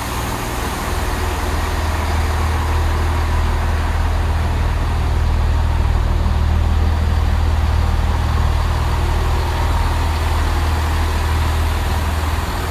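Diesel train engines running: a steady, loud low drone that swells slightly in the middle and eases a little near the end.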